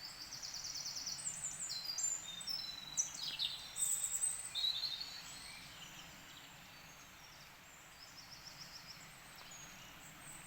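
Wild birds singing in woodland: rapid high trills and chirps, busiest in the first half and thinning out after about five seconds.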